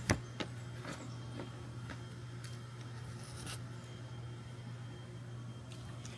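A steady low hum with a few faint scattered clicks and rustles.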